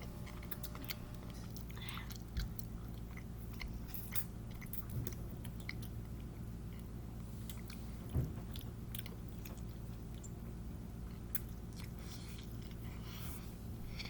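Close-miked chewing and mouth noises of people eating: scattered soft clicks and smacks over a steady low hum.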